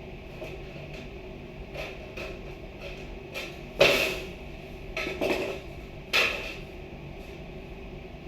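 Irregular knocks and clatters of things being handled and set down, with three sharper knocks close together in the middle, the first the loudest.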